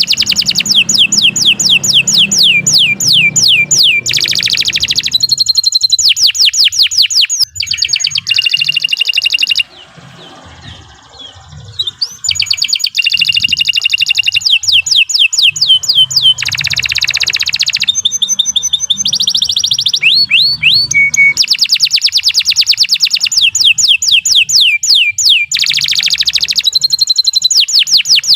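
Domestic canary singing a long, vigorous song of fast trills and rapidly repeated falling notes, with a short break about ten seconds in before the song resumes.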